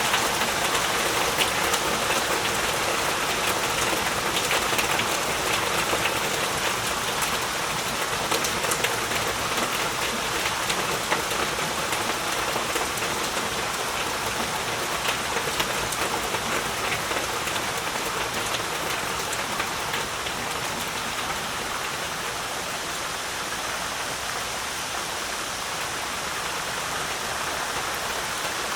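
Heavy rain falling steadily: a dense hiss of rain with many distinct drop pops, which thin out in the last third into a smoother, even wash.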